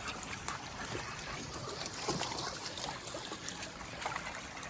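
Water trickling in a shallow stream, with a few faint small clicks.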